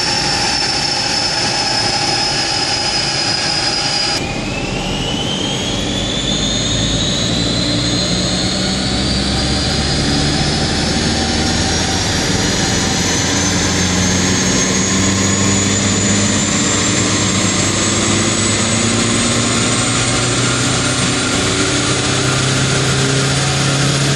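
1.9 TDI diesel (AHF) on a chassis dyno. For the first few seconds the car coasts down on the rollers for the loss measurement, with a slowly falling whine. Then the engine pulls under load, its revs and a high turbo-like whine climbing steadily throughout.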